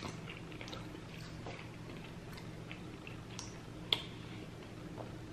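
Faint chewing and wet mouth clicks of someone eating, with one sharper click about four seconds in, over a low steady hum.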